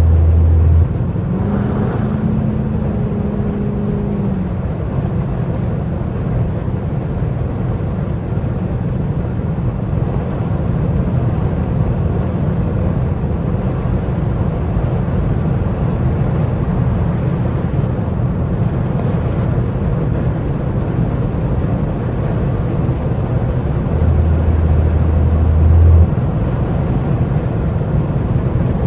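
Straight-piped Chrysler 300C heard from inside the cabin while driving: steady engine, exhaust and road noise. A deep low drone is loud for the first second and again for about two seconds, about 24 seconds in.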